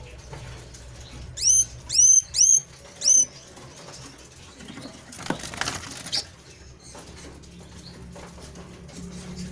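A small cage bird (flamboyan) giving four short, loud chirps in quick succession, each sweeping up in pitch, starting about a second and a half in; a brief rustle, like wing flutter, follows around five to six seconds in.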